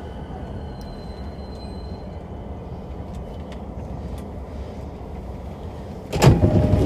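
Steady low rumble inside a JR East E233-7000 series commuter train's motor car, with a sudden loud burst of noise about six seconds in.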